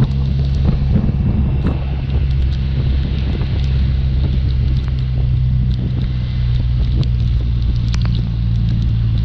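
BMW R1200RT's boxer-twin engine running steadily at cruising speed, with wind rushing over the bike and scattered ticks of rain striking it.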